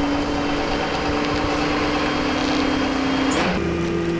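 A vehicle engine idling nearby: a steady droning hum. Its pitch shifts abruptly about three and a half seconds in.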